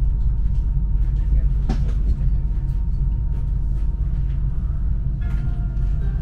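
A passenger train running on the rails: a steady low rumble with light clicks, and one sharper clack about a second and a half in.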